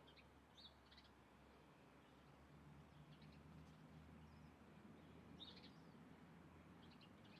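Faint, short bird chirps, a handful of scattered calls with the clearest about five and a half seconds in, over a low steady hum.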